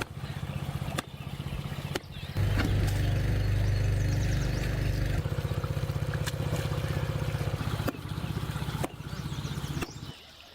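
A small engine running with a fast, even pulsing, changing abruptly in loudness and pitch several times, then dropping away near the end.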